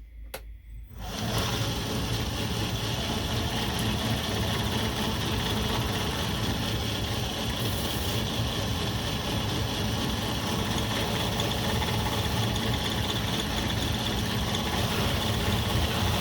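Belt grinder switched on about a second in and running steadily with a medium abrasive belt, sanding the pitted pommel of an old knife.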